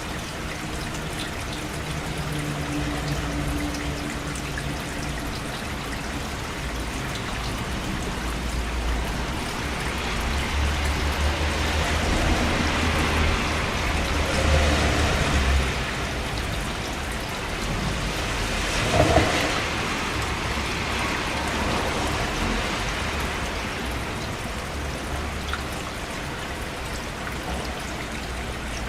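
Steady rain falling, with a low rumble of thunder swelling through the middle and a single sharp crack, the loudest sound, about two-thirds of the way through.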